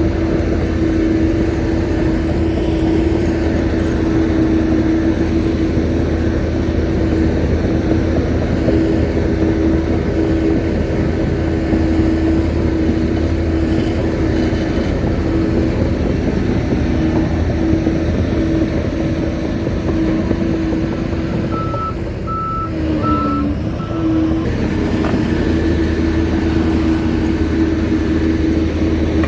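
Shantui bulldozer's diesel engine running steadily under load. About three-quarters of the way through, the engine note dips briefly and a reverse alarm gives about four short beeps as the dozer backs up, then the engine picks up again.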